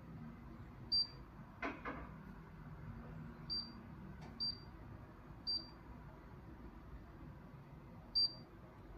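Five short, high beeps at irregular spacing from a Philips coffee machine's control panel as its buttons are pressed, with a pair of quick clicks about two seconds in.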